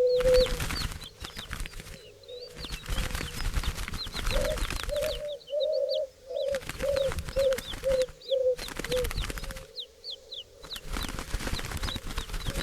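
Bird calls: many small birds chirping high and quick throughout. A lower-pitched bird gives a series of short notes in the middle that fade out toward the end. A rustling, flapping-like noise runs underneath and breaks off abruptly several times.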